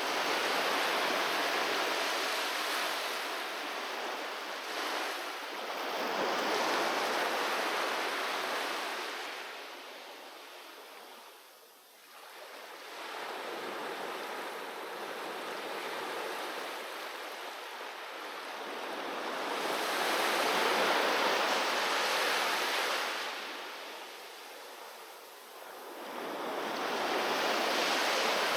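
Ocean surf breaking on a beach: the hiss of the waves swells and ebbs about every six seconds, easing into brief lulls about twelve seconds in and again near twenty-five seconds.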